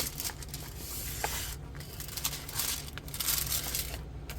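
Rustling and scraping of plastic packaging and a diamond painting canvas being handled, in a few uneven swells, over a low steady hum.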